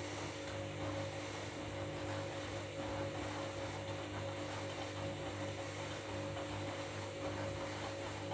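Washing machine in its wash cycle, turning a load of bed linen in the drum, its motor giving a steady hum.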